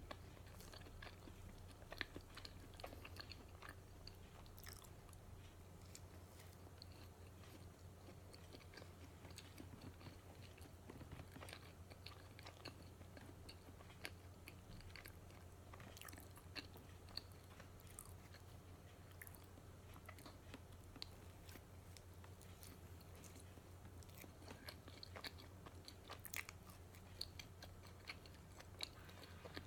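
A person chewing and biting into matcha donuts close to the microphone, with many short, scattered mouth clicks and crunches. A steady low hum sits underneath.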